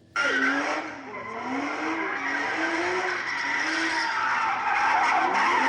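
A Nissan car's engine revving up and down while its tyres squeal and skid in a burnout, starting suddenly about a quarter second in.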